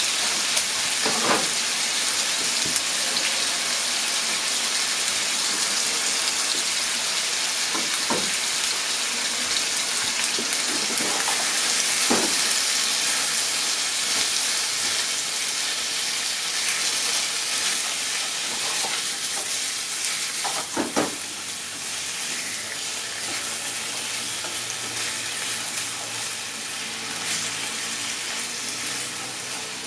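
Chicken pieces and sliced onion sizzling in a frying pan, with a few knocks and scrapes of a wooden utensil stirring them. The sizzle eases off slightly in the last third.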